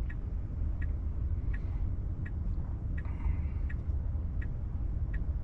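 Tesla Model 3 turn-signal indicator ticking steadily inside the cabin, about one tick every 0.7 seconds, over a low steady cabin rumble while the car waits to turn left.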